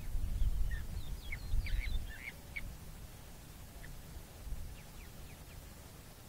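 Short, quick bird calls: a cluster of several in the first few seconds, then a few fainter ones later, over a low rumble.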